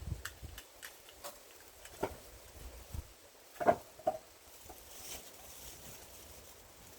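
A few scattered sharp knocks of wood against wood, the loudest a little past halfway and a second one just after it, with faint rustling between.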